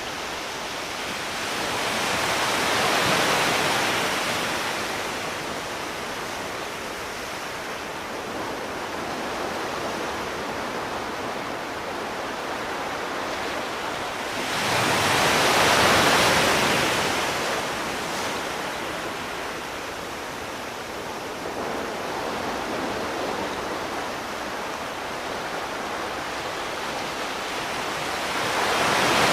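Sea surf: a steady hiss of water with waves that swell and fade slowly, one cresting about three seconds in, a louder one around the middle, and another building at the very end.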